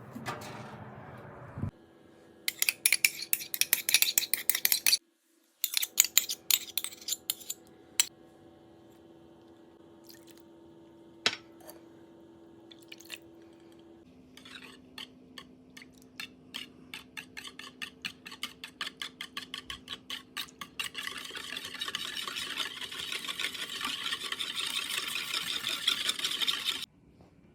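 Food-preparation handling sounds: sharp clicks and clinks of utensils and dishes in several short segments, with a run of quick ticks in the middle and a denser hiss mixed with clicks near the end.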